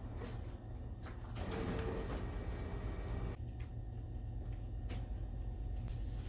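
Steady low rumble of a car heard from inside the cabin, with a few knocks and clicks over it.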